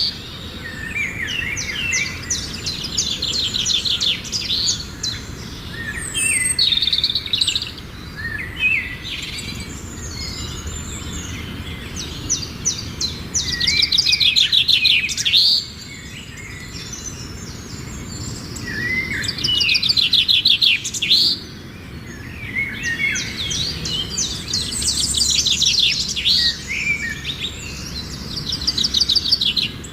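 Small birds singing and chirping in rapid high-pitched trills. The song comes in bouts of a few seconds, with short quieter pauses between them.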